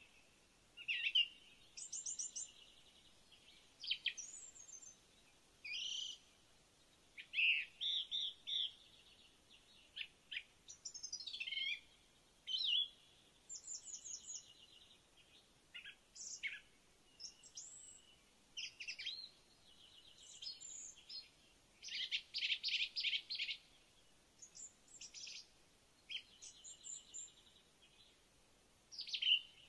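Birds singing and calling: short chirps, whistled phrases and quick trills, one after another with short gaps between them.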